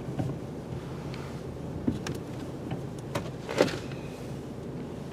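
Steady low hum of a ferry's onboard machinery, with a few sharp clicks and knocks around two and three and a half seconds in.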